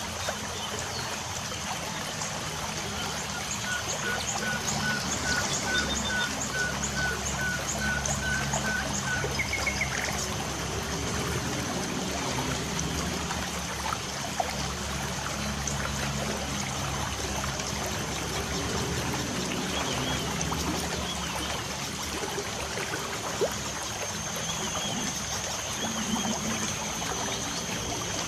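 Light rain falling steadily, with birds chirping over it. One bird repeats a short, even note about twice a second a dozen times, then gives a brief trill, while others chirp higher.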